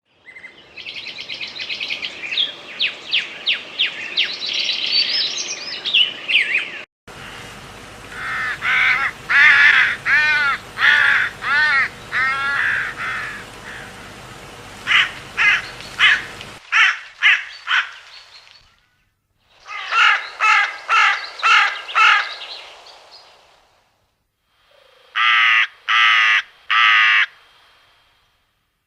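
Common raven calling in several bouts of rasping, pitched croaks and caws, with a quick run of clicks about halfway through and short pauses between bouts.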